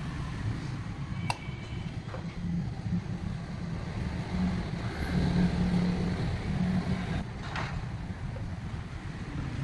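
A low, steady engine rumble, with a sharp click about a second in and a shorter knock near the end.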